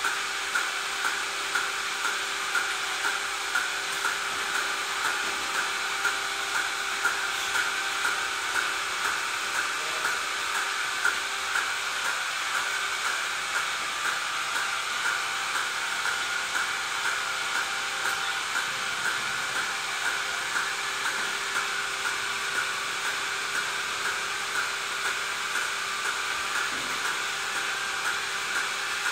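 Machinery running with a steady hiss and a regular pulse about once a second.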